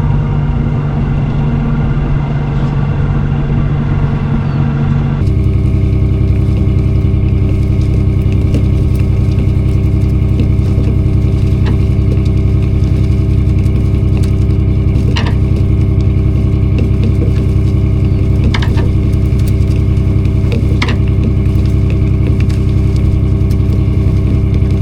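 Boat engine running steadily at an even speed. The sound shifts abruptly about five seconds in, then runs on with a few sharp clicks or knocks.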